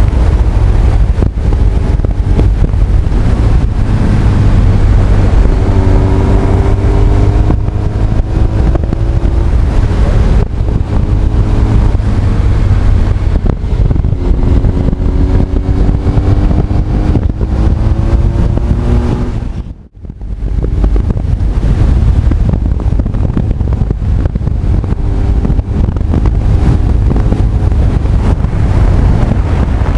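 Honda CB1300 Super Bol d'Or's inline-four engine under way on the road, its note climbing in pitch twice as the bike accelerates, under heavy wind buffeting on the microphone. The sound dips sharply for a split second about two-thirds of the way through.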